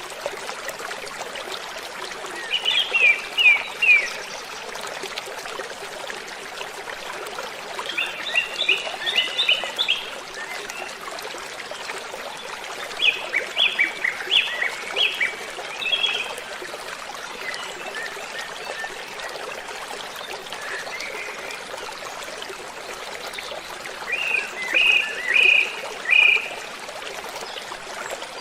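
Steady rush of a waterfall, with a bird singing four short phrases of quick, high, repeated notes a few seconds apart.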